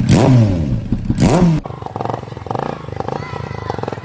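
Bajaj Discover 125's single-cylinder engine, its sound modified to resemble a KTM, revved in two quick throttle blips, then settling to idle with a rapid, even beat from about a second and a half in.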